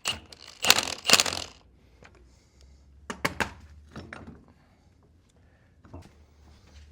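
Tools working on a bolt of a Farmall Cub tractor's steering gear as it is tightened: a few loud, short bursts of metal-on-metal noise in the first second and a half. Lighter metallic clicks and knocks follow.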